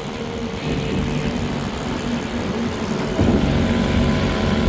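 1961 Johnson 20 hp two-stroke outboard motor running steadily with the boat under way. It gets louder about three seconds in.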